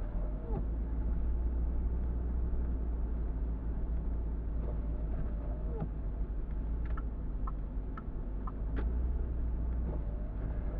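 Car interior on a snowy drive: a steady low road and engine rumble. A short squeaking sweep with a falling pitch, typical of a windshield wiper dragging across the glass, comes three times about five seconds apart, with a few light ticks in between.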